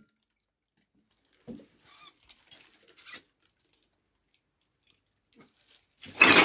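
Faint, short mouse squeaks and light scuffling a couple of seconds in, then a sudden loud clatter of objects being knocked about near the end.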